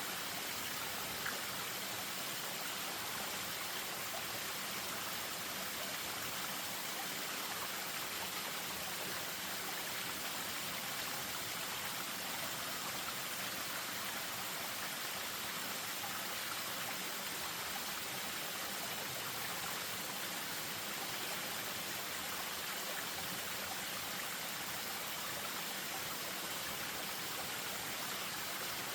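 Spring-fed stream running over a small waterfall: a steady, even rush of water with no change throughout.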